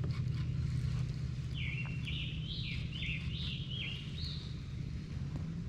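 A bird singing a quick series of about seven repeated chirps, roughly two a second, over a steady low hum.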